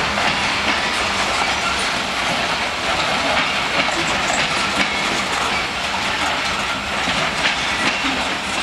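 Freight train's steel gondola cars rolling past close by: a steady rolling rattle with wheels clicking over the rail joints.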